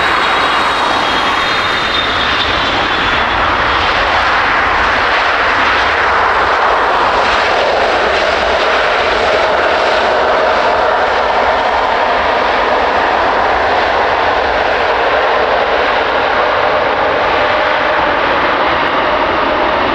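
Jet airliner's engines running close by: a loud, steady rush of noise with a faint tone that slowly rises in pitch over the second half.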